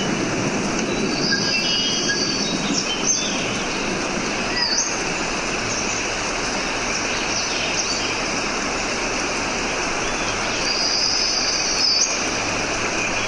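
Birds calling and whistling in short high rising and falling notes over a steady rushing background noise, with a run of repeated high notes near the start and again near the end.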